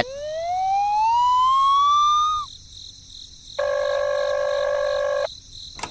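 A pitched tone rising in a smooth glide for about two and a half seconds, then stopping abruptly. After a short pause, a steady horn-like tone sounds for under two seconds.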